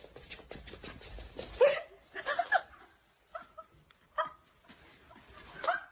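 A pet animal making a series of short, pitched calls, about half a dozen spaced through a few seconds.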